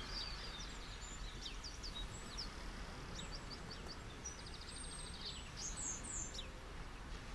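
Steady wash of sea waves on a beach, with songbirds chirping over it and one bird giving a quick trill about five seconds in.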